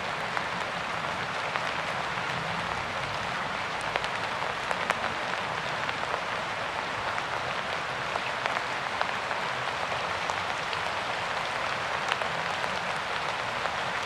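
Steady rain falling: an even hiss of many drops, with scattered sharper individual drop hits standing out.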